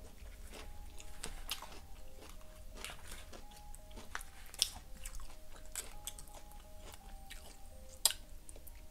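Close-up chewing and wet mouth sounds of someone eating a mouthful of Chipotle burrito bowl, with small clicks and scrapes of the fork in the foil tray and a couple of sharper clicks about four and a half and eight seconds in.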